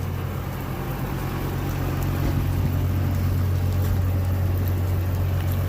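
A vehicle engine running with a steady low hum, under a constant hiss of falling and running water.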